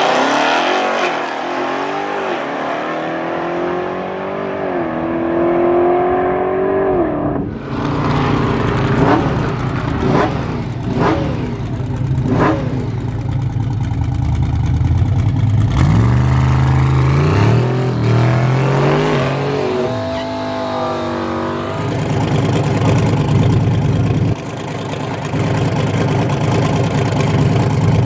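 A car engine revving repeatedly, its pitch climbing and falling several times. About seven seconds in, it drops off suddenly, followed by a few sharp cracks. It revs again midway and then runs more steadily.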